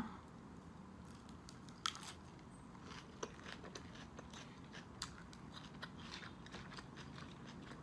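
Faint crunchy chewing of a crisp lettuce leaf, with scattered short clicks and mouth sounds.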